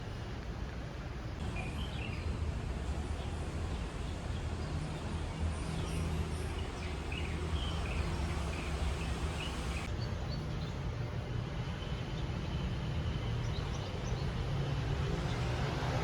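Small birds chirping in short calls over a steady low rumble of distant traffic.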